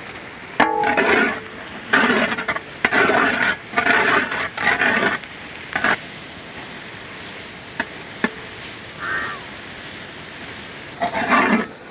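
Crushed garlic and ginger, shallots and dried red chillies frying in sesame oil in an uruli: a steady sizzle, with a ladle scraping and stirring in a run of strokes over the first six seconds and again near the end. A short ringing knock about half a second in.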